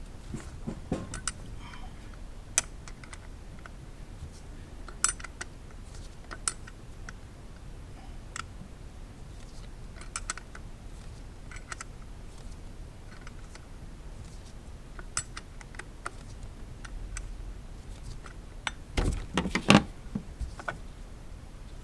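Scattered light metallic clicks and clinks of hand tools and parts being handled while changing coil packs, with a louder cluster of knocks near the end.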